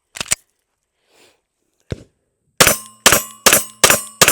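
A few handling clicks from a Canik SFX Rival S 9mm pistol, then five rapid shots about 0.4 s apart, with a metallic ringing hanging after them, as of steel targets being hit.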